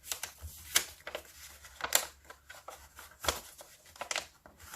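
A sheet of paper being folded and creased by hand into a paper airplane's wings: soft rustling broken by several sharp, crisp crackles.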